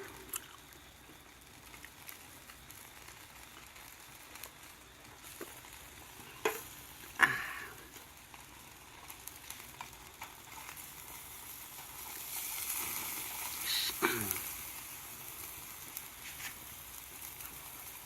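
Meat sizzling on a fire-pit grill, swelling for a few seconds past the middle, with a few sharp clicks on the grill about a third of the way in.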